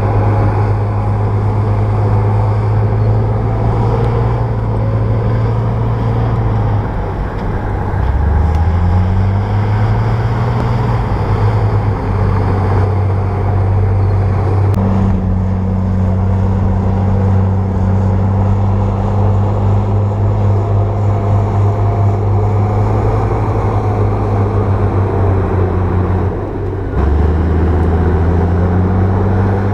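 Bulldozer's diesel engine running steadily. Its note drops and then climbs back twice, about seven seconds in and again near the end.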